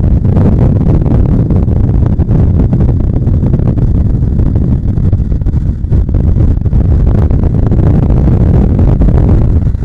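Bajaj Pulsar 150 motorcycle riding along: a steady, loud low rumble of engine and riding noise, easing slightly for a moment about six seconds in.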